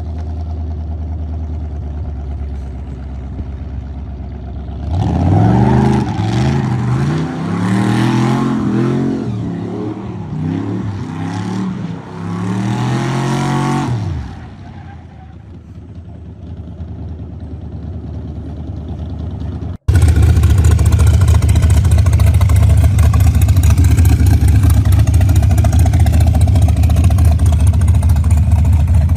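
Hot rod engine running, then revving hard and repeatedly, its pitch rising and falling for about nine seconds in a burnout, before dropping back. Near the end a sudden cut brings in a loud, steady engine rumble close up.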